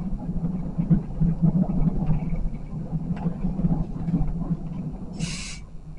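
Regional passenger train running, heard inside the carriage: a steady low rumble from the wheels and running gear. A short hiss comes about five seconds in, and the rumble eases a little near the end.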